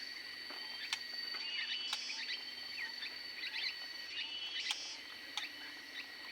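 Small aviary birds giving short repeated chirps about once a second, with scattered sharp clicks and a steady high-pitched tone underneath.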